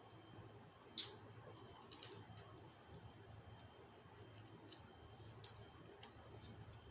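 Near silence with a sharp click about a second in, a second smaller click about a second later, and a few faint scattered ticks.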